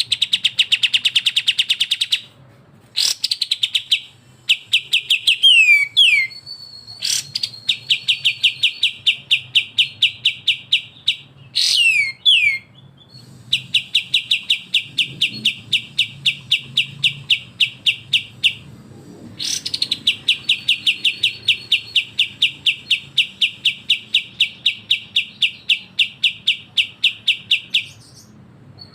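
Kapas tembak and cucak jenggot bulbuls giving 'besetan' calls: long, fast rattling strings of repeated notes, about ten a second, each lasting several seconds. Short downward-slurred whistles come between the strings.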